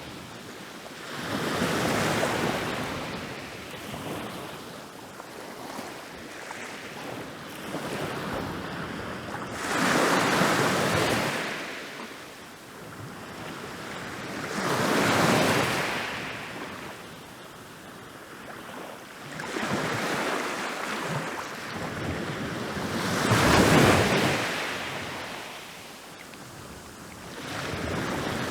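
Ocean waves breaking on a beach, each wave swelling to a crash and washing back, about every four to five seconds, the loudest breaks about 10, 15 and 24 seconds in.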